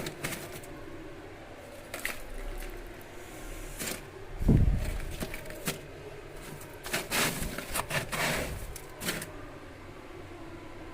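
Chunks of freezer ice being handled and moved: scattered knocks, clicks and scrapes, with one heavy thud about four and a half seconds in.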